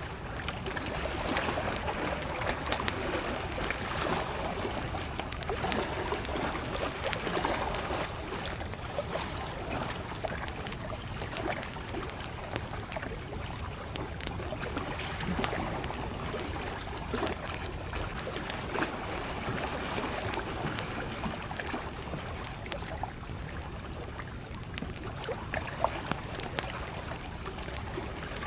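Gentle lake waves lapping at the shore, swelling and easing every few seconds, with a wood campfire crackling in many small sharp pops.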